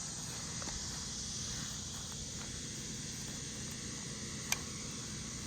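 Evening insect chorus of crickets: a steady high-pitched chirring that does not let up, with one sharp click a little past four seconds in.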